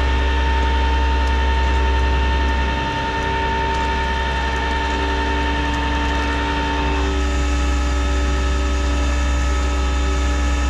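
Flatbed tow truck's engine running with its hydraulics engaged, winching a car up the bed: a steady low drone with a whine on top. The pitch of the whine changes about seven seconds in.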